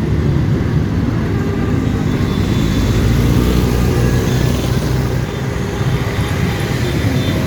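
Several motorcycle engines running together, a steady loud mass of engine noise with no single machine standing out.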